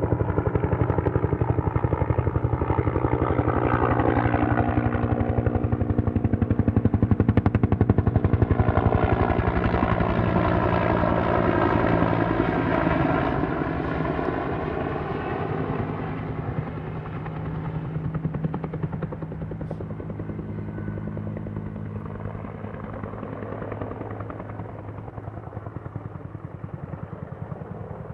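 Helicopter flying with its rotor beating in rapid pulses. It is loudest a little before the middle, then gradually fades as it moves away.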